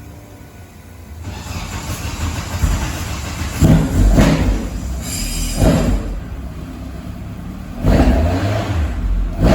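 Vauxhall red top four-cylinder race engine on throttle bodies, running just after its first start-up. About a second in it gets louder, then it is revved in several sharp throttle blips.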